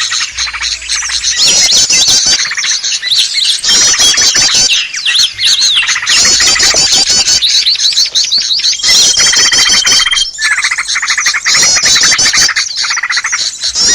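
Bird-lure recording of many small songbirds chirping and chattering noisily together in rapid high trills that come in repeated bursts, with one long steady whistle near the middle.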